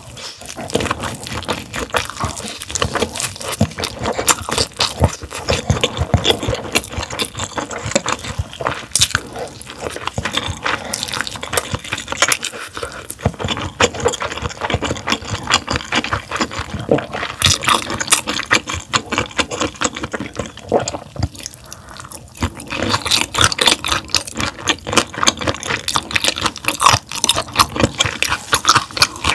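Close-miked wet chewing of raw gizzard shad sashimi, crunching through the soft bones: a dense run of crackly, squelching mouth sounds with a couple of short pauses.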